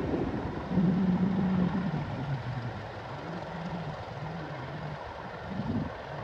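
A railway locomotive running past, with a low humming engine note that drops in pitch and fades over a few seconds.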